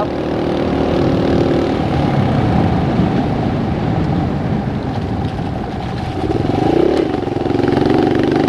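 Dirt bike engine running under way. Its note drops about two seconds in, climbs again around six seconds as the revs rise, then holds steady near the end.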